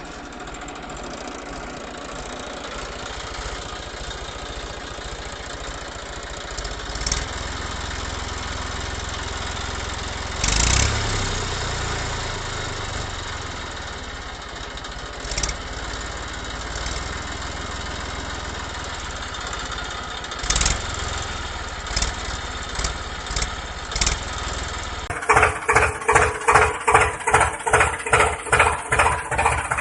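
A small motor running steadily, with a few scattered knocks. About 25 seconds in, the sound cuts to a louder, evenly pulsing beat, about two or three pulses a second.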